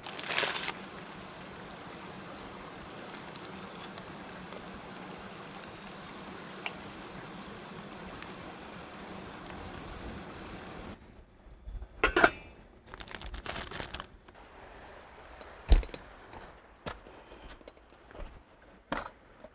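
Steady rush of flowing stream water for about the first eleven seconds. It then cuts off to a quieter background with a few scattered knocks and clinks, like utensils or cookware being handled.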